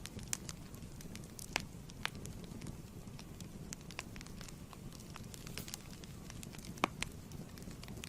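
Wood fire crackling in a fireplace: a steady low rumble with irregular sharp pops, two louder snaps about a second and a half in and near seven seconds.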